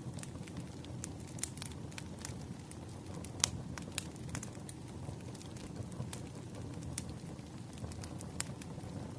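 Wood fire crackling: irregular sharp pops and snaps over a low, steady rumble of burning logs, with one louder pop about three and a half seconds in.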